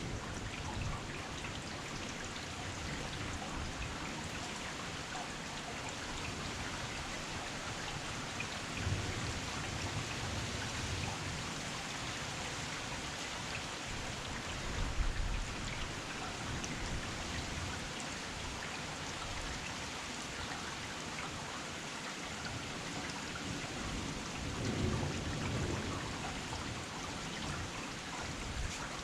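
Heavy rain pouring down steadily, a dense patter of drops on hard surfaces. Low rumbles swell up three times, about a third of the way in, halfway and near the end.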